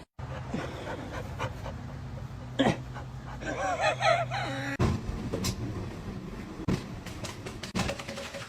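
A dog panting, with a wavering whine about three and a half seconds in.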